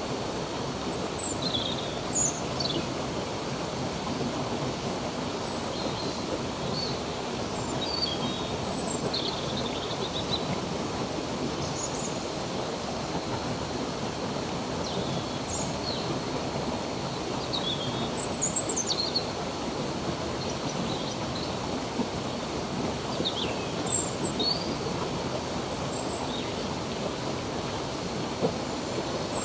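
Steady rush of flowing stream water, with short high bird chirps scattered over it every second or two.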